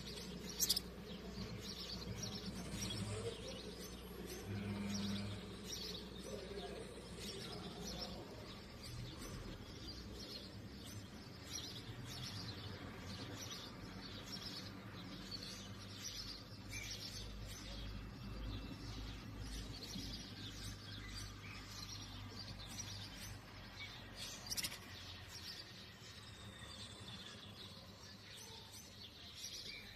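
Canaries, likely Spanish timbrados, chirping with many short, high calls in quick succession throughout.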